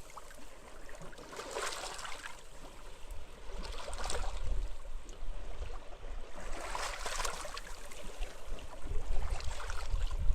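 Small sea waves washing onto a beach, each breaking in a hissing surge about every two to three seconds, four in all, over a low rumble of wind that swells near the end.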